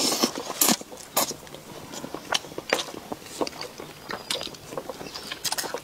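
Close-up chewing of a mouthful of braised pig's trotter, a string of irregular short clicks and smacks picked up by a clip-on microphone on the eater's chest.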